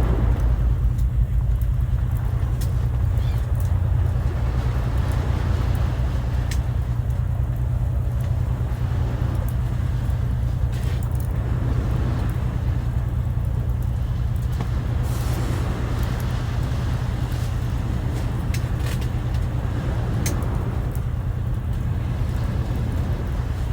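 Sea waves washing in with a steady low rumble that swells every few seconds, with scattered sharp crackles from a wood fire.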